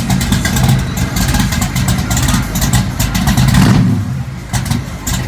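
A 632 cubic inch big-block V8 running through dual 4-inch exhaust, idling unevenly. There is a brief rise in revs a little over three and a half seconds in, then it settles back down.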